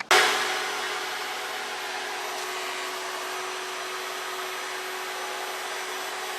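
Vevor electric wood planer running steadily: a motor whine with a constant hum over a loud rushing hiss, starting suddenly just after the start.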